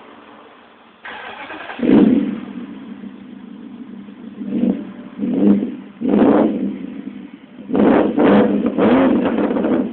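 BMW 650i V8 started through its exhaust: a brief crank about a second in, a loud flare as it catches, then idling with a string of about six short throttle blips in the second half.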